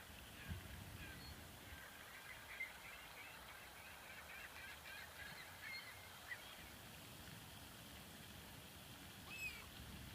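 Distant water birds calling: a faint run of short chattering calls lasting several seconds, then a single falling call near the end.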